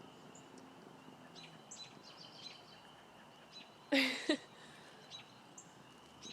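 Small birds chirping here and there in the background over a faint steady high tone. About four seconds in, a short loud pitched sound comes twice in quick succession.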